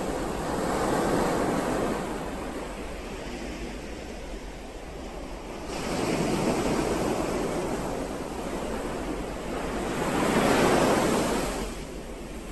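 Ocean surf, with waves surging in and falling back three times; the last surge is the loudest.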